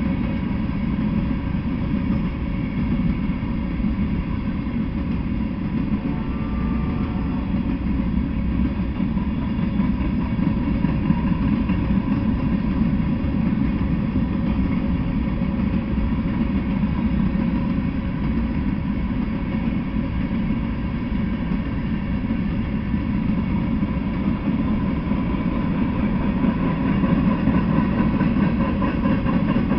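Freight train of covered hopper cars rolling past, a steady low rumble of steel wheels on rail.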